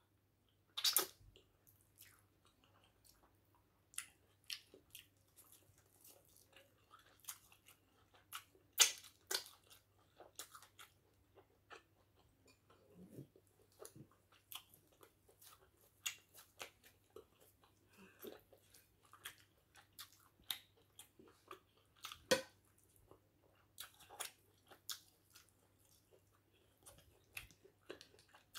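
Close-miked mouth sounds of a person eating potato-flour fufu with egusi soup by hand: chewing, swallowing and lip smacks, heard as soft, irregular short clicks and smacks.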